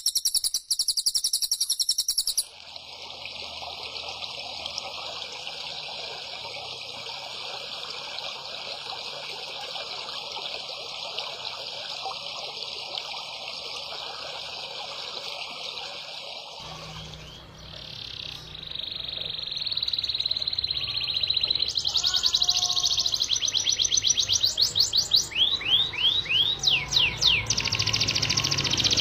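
Songbirds singing high, rapid chattering song and trills, with abrupt switches between separate recordings a few seconds in, past the middle, and again about three quarters of the way through; the last part has fast repeated sweeping notes.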